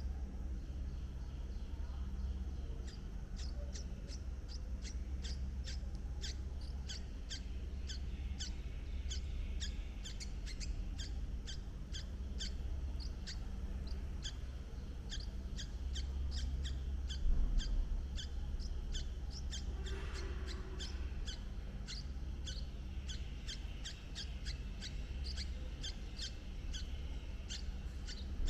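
Short, high bird chirps repeated a few times a second in a long, irregular series, over a steady low rumble. One dull thump comes a little past halfway.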